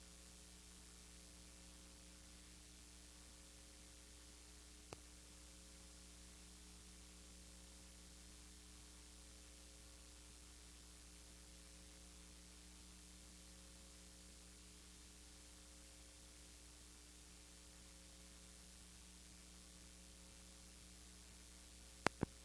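Near silence: a steady electrical hum with hiss, broken by a faint click about five seconds in and two sharp clicks near the end.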